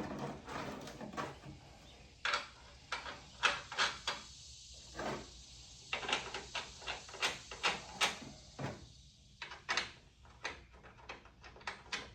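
Hand tools and metal parts clicking and clanking in irregular knocks, with a quicker run of clicks in the middle.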